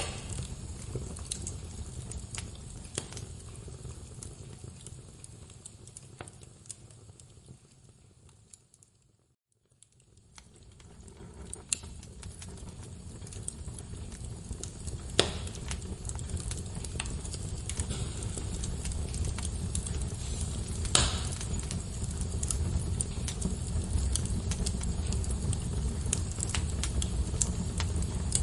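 Wood fire crackling: scattered sharp pops and snaps over a steady low rumble of flame. The sound fades out to silence about nine seconds in, then fades back up and carries on.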